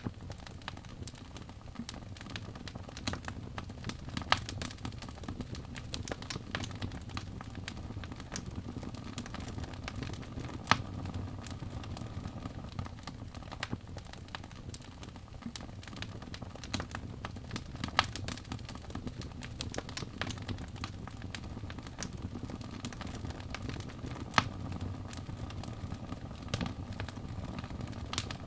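Wood fire burning in a fireplace: a steady low rumble of flames with constant small crackles and a few louder sharp pops scattered through.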